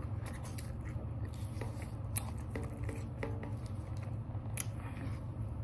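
A person quietly chewing salad, with scattered small clicks and scrapes of eating, over a steady low hum.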